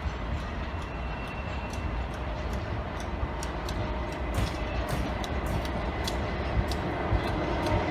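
A train approaching, its rumble growing louder toward the end, with many sharp clicks and ticks from the rails and wheels that come thicker as it nears.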